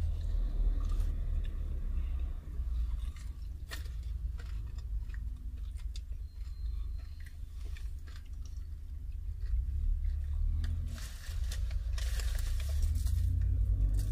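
Close-up chewing and crunching of crispy fried chicken wings and chips, with scattered crisp bites and a denser run of crunching near the end, over a steady low rumble.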